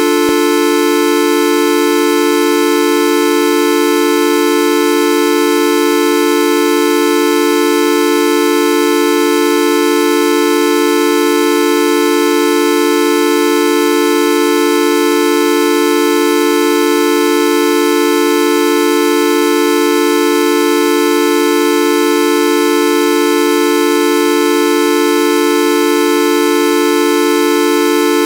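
Videoup V1.2 sound effect: a loud, buzzy, horn-like electronic tone with many overtones, held without any change in pitch or level.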